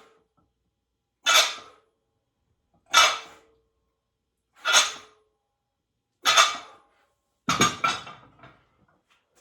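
A man's forceful breaths out during a set of weightlifting reps: five short, hissy exhalations about every one and a half seconds, the last one doubled and tailing off.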